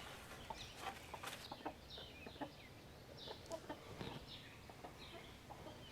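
A flock of hens clucking faintly, with scattered short clucks.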